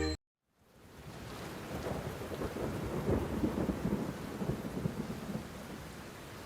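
Thunderstorm sound effect: rumbling, crackling thunder over steady rain. It swells up from silence after the music stops at the start, peaks around the middle, then settles into a steady rain hiss.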